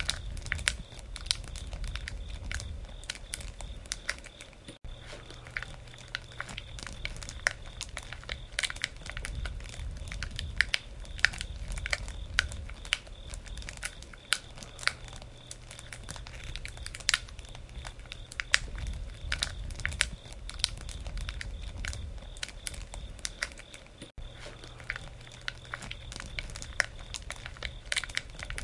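Campfire crackling: burning wood gives off many sharp, irregular snaps and pops over a low rumble.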